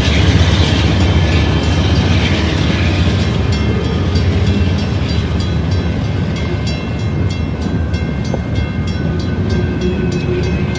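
Freight train cars rolling past at a grade crossing with a steady low rumble, a little louder in the first seconds. From a few seconds in, the crossing signal's bell dings at an even pace, about three strikes a second.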